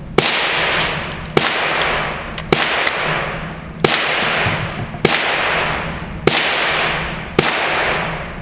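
Handgun shots fired at a steady pace, seven in all about a second or so apart, each loud crack followed by a long fading echo.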